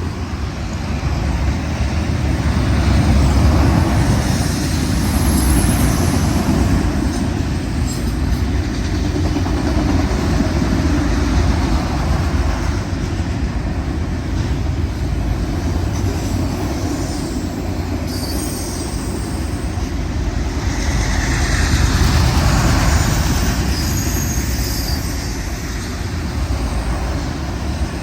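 Unit freight train of auto rack cars rolling past: a steady rumble of steel wheels on rail, with faint high wheel squeals now and then.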